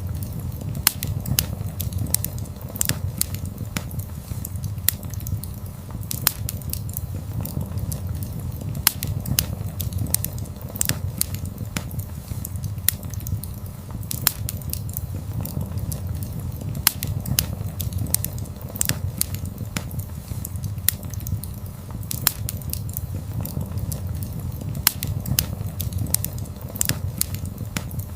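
Wood fire crackling: frequent sharp pops and snaps, several a second, over a steady low rumble.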